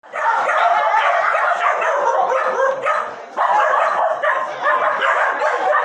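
Two dogs fighting: continuous snarling, growling and yelping with barely a break, easing briefly about halfway through before starting up again.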